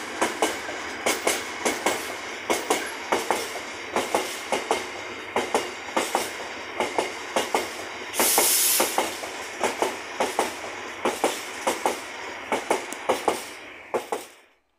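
Container wagons of a freight train rolling past, wheels clacking over the rail joints in a steady run of quick groups of two or three. There is a short burst of hiss about eight seconds in, and the sound dies away near the end as the last wagon clears.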